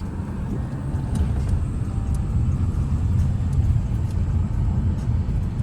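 Car on the move: a steady low road and engine rumble.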